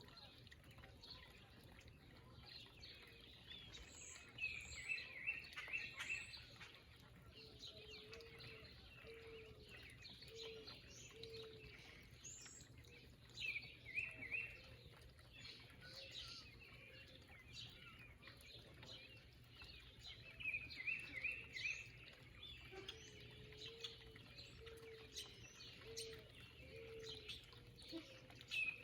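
Backyard birds singing faintly: one bird repeats a short, quick phrase about every eight seconds while other birds chirp around it. Twice a lower call of several evenly spaced notes sounds out.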